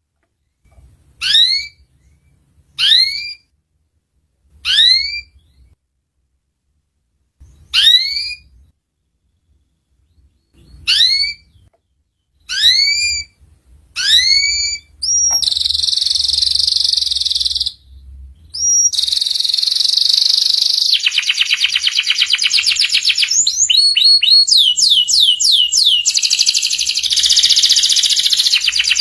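Canary calling and singing: a string of single upward-sweeping chirps, one every second or two, then about halfway through it breaks into continuous song made of fast trills and rolls.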